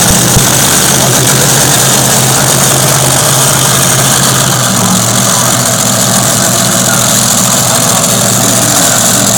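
Heavy tractor engine running steadily at an even, low speed, its pitch holding with no revving, under a steady hiss.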